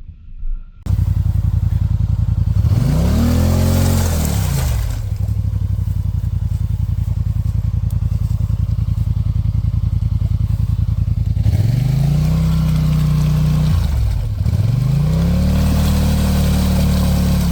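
ATV engine starting abruptly about a second in and running hard. Its pitch rises and falls back three times as it is revved.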